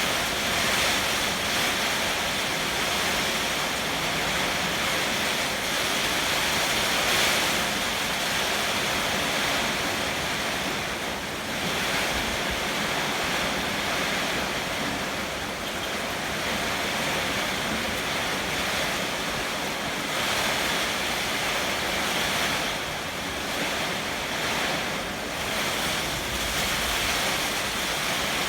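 Heavy typhoon rain and strong wind: a steady loud rushing that swells and eases every few seconds, with gusts buffeting the microphone.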